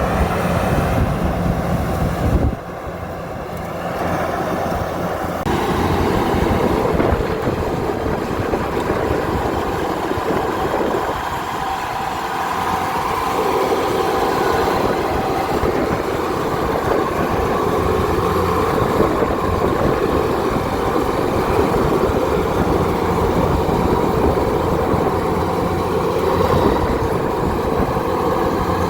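Kubota DC70 combine harvester running under load in a rice field: a steady diesel engine drone with the threshing and cutting machinery clattering. The deep engine hum drops away suddenly about two and a half seconds in, and the machine noise carries on.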